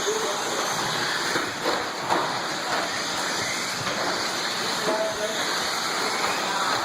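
Steady rushing noise of a field of radio-control short-course trucks racing on the track, their motors and tyres blending into one even wash of sound.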